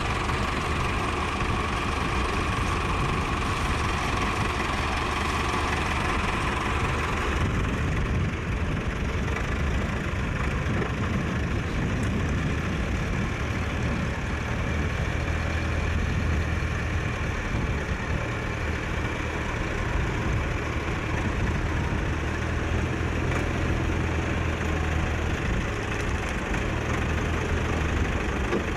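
Tractor engine running steadily with a low hum; a higher, brighter part of the noise drops away about seven seconds in.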